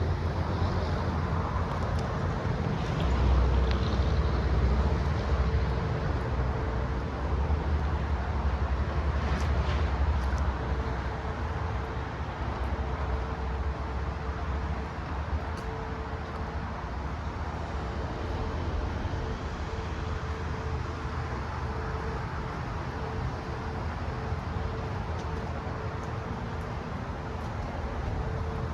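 Ford F750's 6.8L V10 gas engine running steadily with a low rumble. It is louder and deeper for a few seconds near the start, then settles to an even run, with a faint steady whine underneath.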